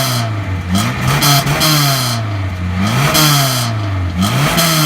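1996 Chevy Cavalier's engine, exhaust and muffler still fitted, revved in three quick blips. Each one climbs sharply and then falls back slowly toward idle.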